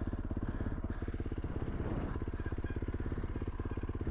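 Yamaha YZ450F's single-cylinder four-stroke engine idling with a steady, even chug.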